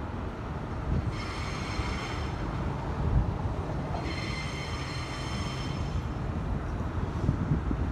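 Electric suburban passenger train running slowly past with a steady rumble of wheels on track. A high-pitched whine comes in twice, about a second in and again about four seconds in, lasting a second or two each time.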